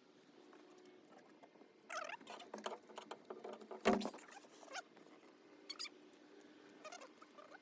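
Light clicks, taps and short squeaks of small parts being handled, with one sharper click about four seconds in.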